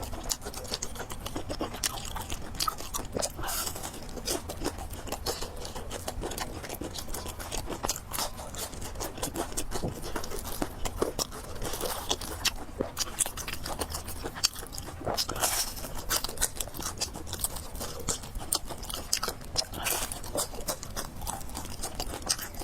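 Close-up eating sounds of a person chewing fried noodles and pork, with many quick irregular clicks and crunches.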